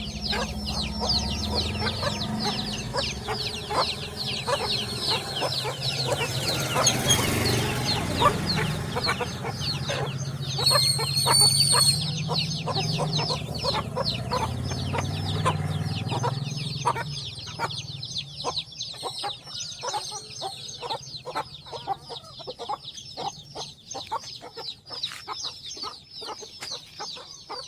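A brood of chicks peeping rapidly and continuously, with a hen clucking among them. A low rumble runs underneath until about two-thirds of the way through, and a louder, higher call stands out for a second or so near the middle.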